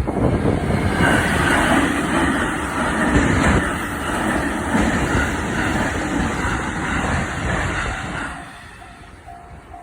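Tōkaidō Main Line electric train passing through a level crossing: steady rail and wheel noise that drops away about eight seconds in. The level crossing's warning bell then rings its repeated 'kan-kan' again near the end.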